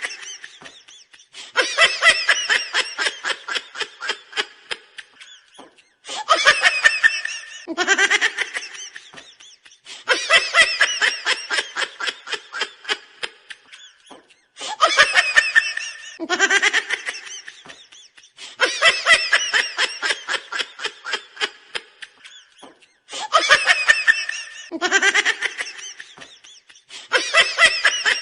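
High-pitched cartoonish laughing sound effect played on a loop. Each round opens with a short rising whoop, then runs into fast 'ha-ha' pulses that trail off, and starts over about every eight and a half seconds, about three times.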